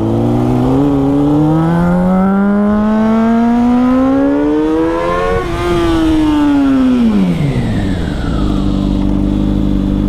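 Motorcycle engine revving, its pitch climbing steadily for about five seconds, then dropping quickly back to a steady idle about eight seconds in.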